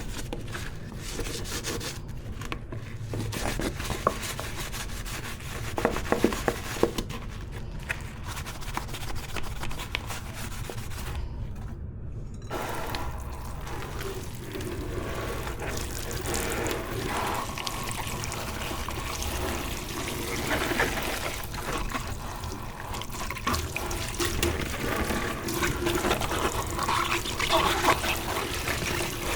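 Dishes and utensils clinking and being handled in a kitchen sink, then partway through the tap is turned on and water runs steadily as dishes are rinsed under it.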